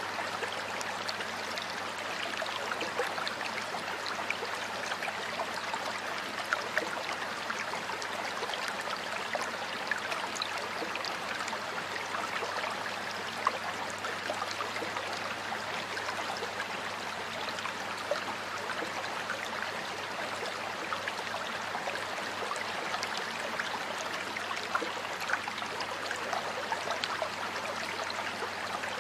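Water flowing in a stream: a steady rush, dotted throughout with small splashes and droplet ticks.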